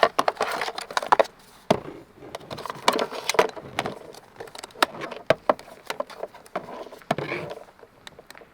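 A run of sharp clicks and knocks with rustling in between, as of small objects being handled and set down.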